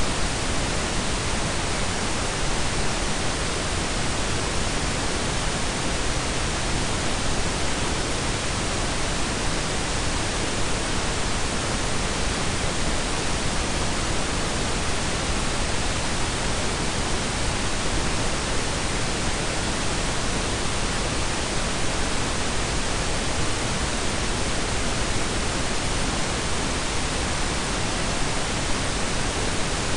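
Synthetic blend of pink and brown noise: a steady, even hiss with a deep low rumble underneath, unchanging throughout.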